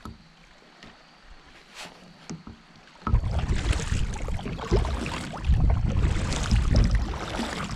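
Kayak on a flowing river: a few light knocks at first, then about three seconds in a loud rushing noise of moving water and wind with a low rumble sets in.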